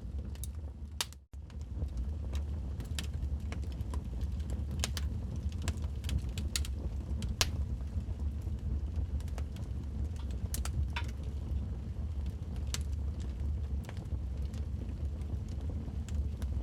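Log fire burning with irregular, sharp crackles and pops over a steady low rumble of the flames. The sound drops out briefly about a second in, then carries on.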